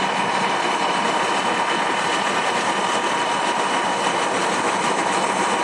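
Cement mixer truck running at idle, heard from beside the truck: a steady engine noise with a faint constant whine over it.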